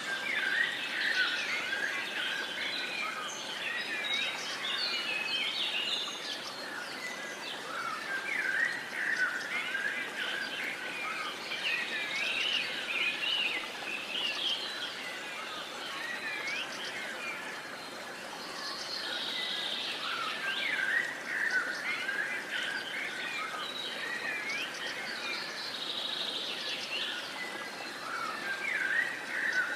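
Many birds singing and chirping at once, a dense chorus of overlapping short calls and warbles, over a steady background hiss.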